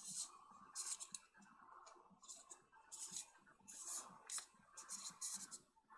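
Irregular small clicks and light scraping of zoom-lens parts being handled and fitted back together.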